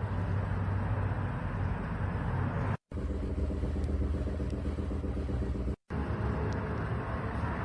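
Kia All New Carnival engine running steadily with a low, even hum, the engine-mount noise the car is being checked for. The sound drops out briefly twice.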